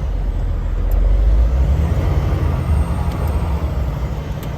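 Truck engine running under load with a deep, steady rumble as the truck drives through deep snow.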